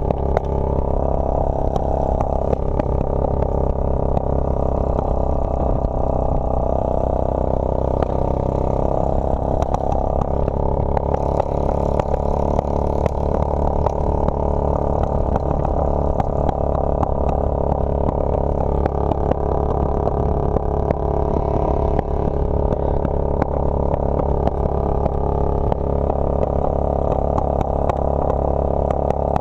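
Motorcycle engine running steadily while riding, its pitch drifting slightly up and down.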